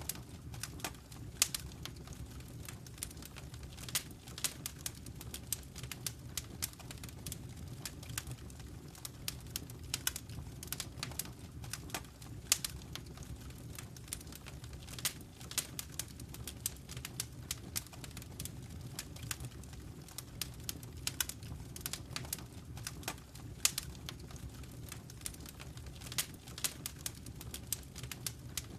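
Wood fire burning in a fireplace, crackling and popping with irregular sharp snaps, a few louder pops standing out, over a steady low rumble.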